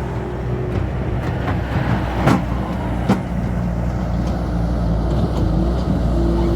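A heavy earthmoving machine's engine running steadily while loading dirt into a dump truck, with a tone that comes and goes above the engine hum. Two sharp knocks stand out, a little before the middle and a little after.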